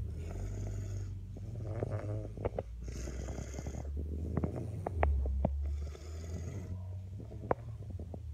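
Sleeping baby snoring: three noisy breaths about three seconds apart, with small clicks in between.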